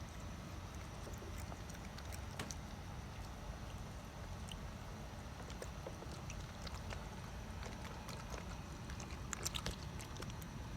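Raccoons moving about and eating: scattered small clicks and taps over a steady low rumble, with a quick flurry of clicks near the end.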